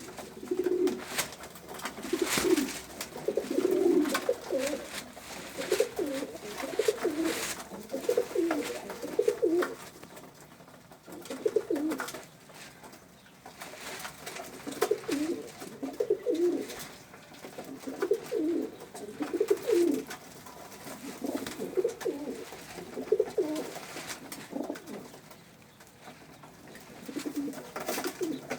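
Domestic pigeons cooing in repeated low, wavering bouts, several birds overlapping, with quieter gaps and scattered sharp clicks.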